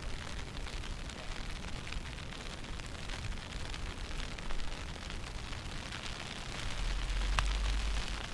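Wind buffeting the camera microphone in a snowstorm, a steady rushing noise with a deep rumble that swells about seven seconds in, plus a sharp click near the end.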